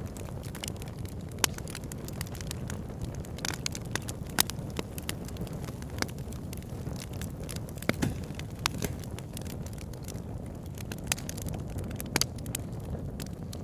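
Wood fire burning in a fireplace: a steady low rumble of flames with frequent sharp crackles and occasional louder pops.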